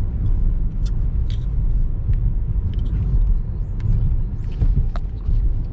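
Steady low road rumble inside a moving car's cabin, with a few faint clicks.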